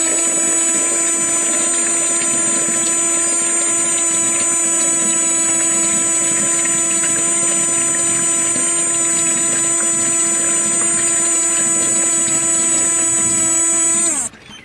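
Small electric motor of a homemade mini water pump running at a steady speed with a high hum and whine, cutting off near the end.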